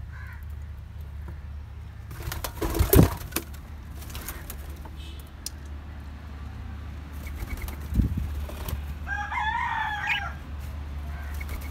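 Caged birds in an aviary: a loud burst of rustling and knocks about two to three and a half seconds in, then a short wavering bird call near the end, over a low steady hum.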